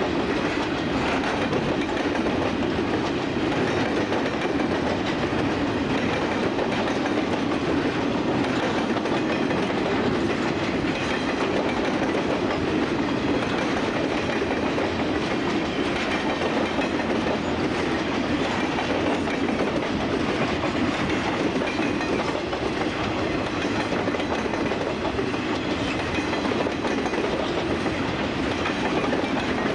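CSX freight train's cars rolling past on the track, a steady, unbroken noise of wheels on rail.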